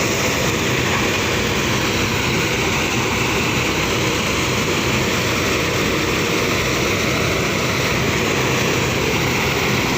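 Rice threshing machine running steadily: a constant engine drone with an even hiss over it.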